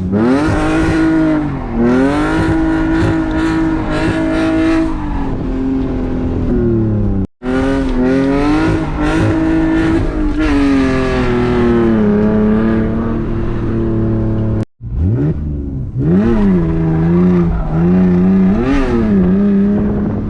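BMW E46's engine revving hard and easing off again and again as the car is clutch-kicked into slides, its pitch climbing, holding high, then dropping. The sound breaks off abruptly twice, about a third and two thirds of the way through.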